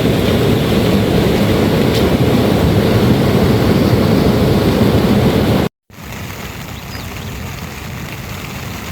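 Heavy rain falling as a steady, loud rushing noise. About six seconds in it cuts off briefly and returns at a lower level.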